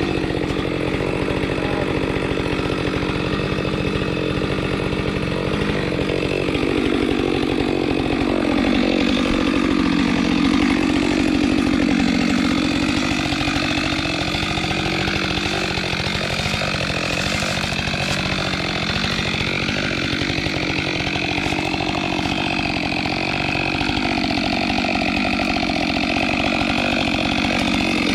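Chainsaw running steadily, cutting timber.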